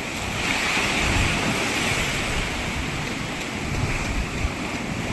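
Ocean surf washing onto a beach: a steady rush of breaking waves that swells about a second in, with wind buffeting the microphone.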